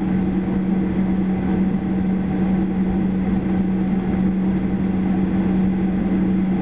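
Steady drone inside the cabin of a Boeing 737-800, with a constant low hum under an even rumble.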